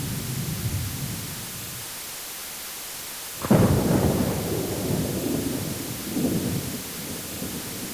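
Thunder: a low rumble dies away, then a sudden sharp thunderclap about halfway through rolls off into further low rumbles, over a steady hiss of rain.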